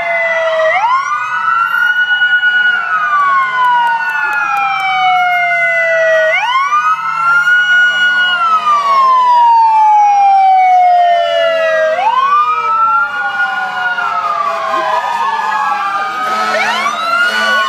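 Fire truck siren wailing in slow cycles, each rising quickly, holding at the top, then falling slowly, about every five and a half seconds. Near the end a second siren overlaps it on a different cycle.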